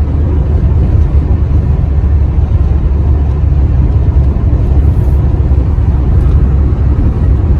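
Truck driving along: a steady low rumble of engine and road noise.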